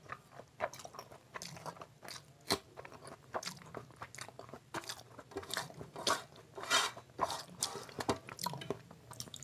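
Close-miked chewing of a mouthful of fried rice with curry: irregular wet smacks and clicks of the mouth, a few a second.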